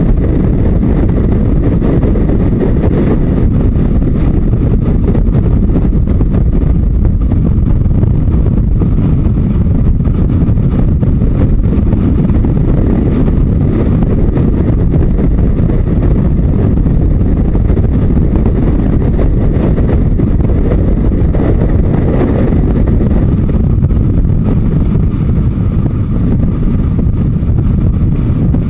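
Wind rushing over the microphone with a Yamaha Diversion 900's four-cylinder engine running underneath as the motorcycle rides at road speed; the engine note shifts slightly up and down.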